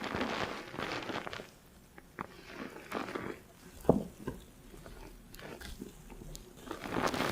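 Fingers scrubbing a lathered head of hair, foam squishing and crackling in irregular strokes, close up on a binaural microphone, with one sharper click about four seconds in.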